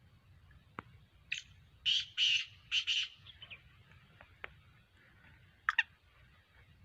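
Black francolin calling: a quick run of harsh, rasping notes, then one more short harsh note a couple of seconds later.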